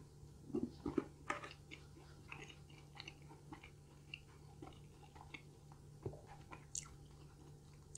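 Close-miked chewing of a Domino's stuffed cheddar bite: soft mouth clicks and smacks, with a few louder bites about half a second to a second and a half in.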